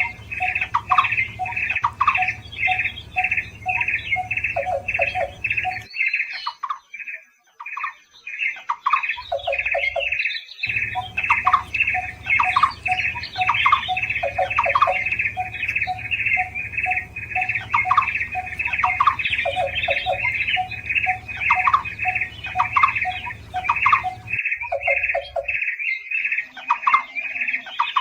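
Barbets (burung takur) calling: a fast, even series of short repeated notes, with a second, lower and quicker series of notes underneath. The calling cuts out twice, briefly.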